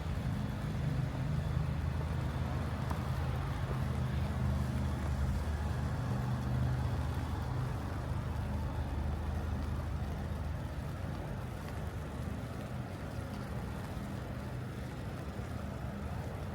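Low, steady rumble of a motor vehicle's engine running nearby, growing weaker after about ten seconds.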